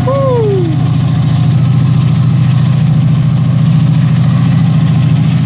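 Chiltern Railways Class 68 diesel locomotive's engine running loud and steady with a throbbing low pulse as the train pulls away. A brief falling tone sounds right at the start.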